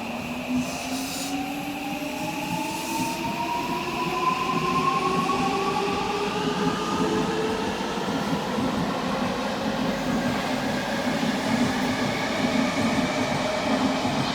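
Odakyu electric train accelerating, its traction motor whine rising steadily in pitch over the rumble of the wheels on the rails.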